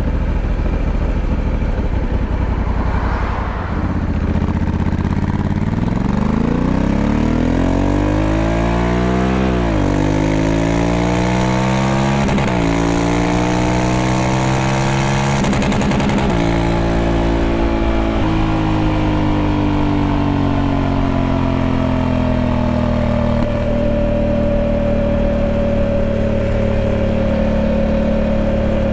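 Honda Africa Twin 1100's 1084 cc parallel-twin engine accelerating hard through the gears. Its pitch climbs and drops sharply at three upshifts, then sinks slowly as the throttle eases off.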